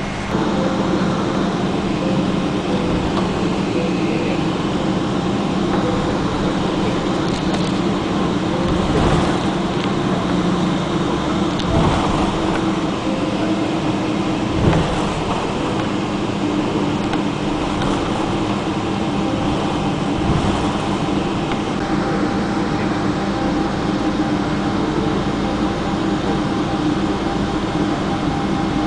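Cabin noise of a Boeing 777-200ER taxiing: a steady hum of the engines at idle and the air conditioning, with a few thumps from the undercarriage, the loudest about halfway through.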